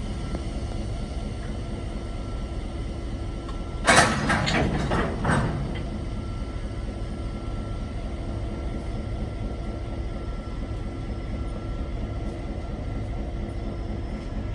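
EMD GP38-3 diesel switching locomotive running with a steady drone. About four seconds in comes a quick series of loud metallic clanks from the train, lasting about a second and a half.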